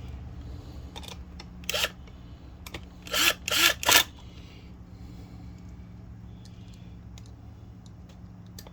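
Screws being refitted into a septic aerator pump housing: a few short, loud scrapes and clicks of metal on plastic, bunched about two to four seconds in, over a steady low hum.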